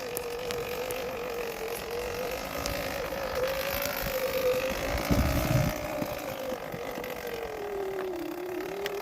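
Electric bike's motor whining steadily at low speed, its pitch wavering and dropping toward the end as it slows. There is a brief low rumble about five seconds in.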